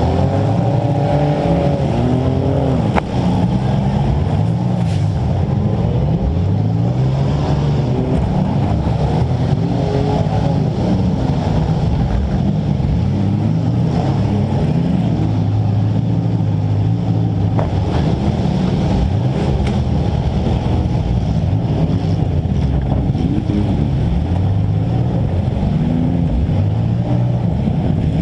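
Compact demolition-derby car's engine, heard close from on board, revving up and down over and over as it drives around the arena, with a few sharp bangs.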